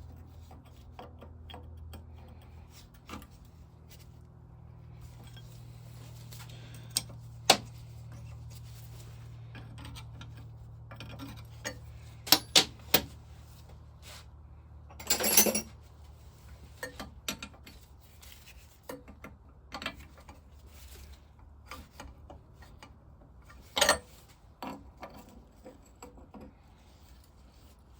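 Hand tools clinking and knocking against a brass engine vaporiser as its seized nuts are worked on: scattered metallic clicks, with a longer clatter about halfway through, over a low steady hum.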